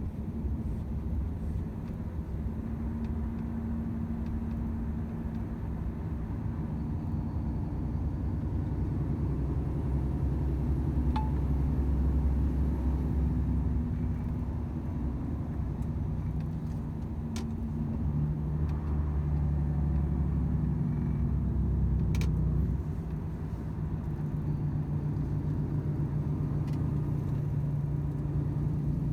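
Volvo FH 500 truck's 13-litre six-cylinder diesel engine and tyres droning steadily on the move, with a few faint clicks.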